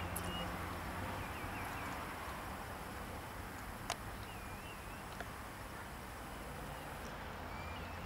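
A bird's short whistled chirps, a few times, over a steady background hiss and low hum; one sharp click near the middle.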